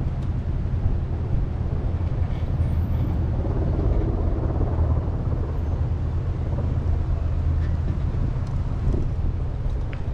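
Strong wind buffeting the microphone: a steady low rumble with no clear pitch.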